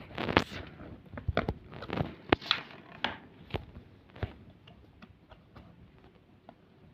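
Sheet of paper being handled and folded: a run of crisp rustles and creasing crackles, busiest in the first four seconds, then only a few faint ticks.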